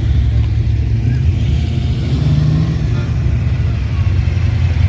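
A car engine running with a low, steady rumble, revved once about two seconds in.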